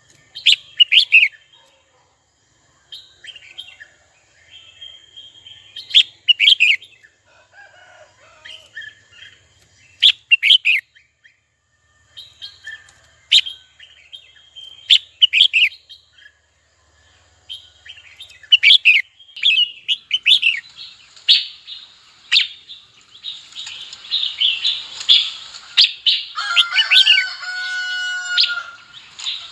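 Red-whiskered bulbul singing: short, loud, chirpy phrases every few seconds, turning into a dense run of chirps over the last several seconds.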